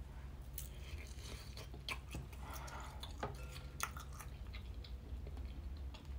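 Close-miked chewing of a mouthful of fried Spam, with scattered small wet clicks and smacks.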